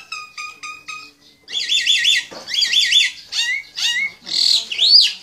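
A small bird calling loudly and over and over: quick high chirps, then fast runs of rising-and-falling notes, and a couple of sliding whistles near the end.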